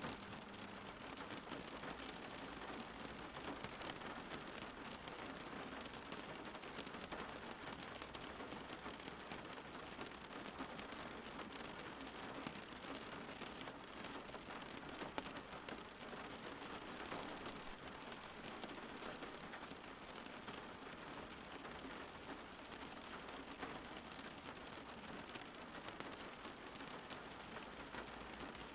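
Steady rainfall, a soft even hiss of rain falling on a surface with scattered drop ticks.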